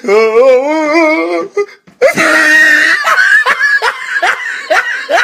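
Laughter from meme sound clips. First comes a voice wavering up and down for about a second and a half, then a short break, then a burst of rapid, repeated laughing.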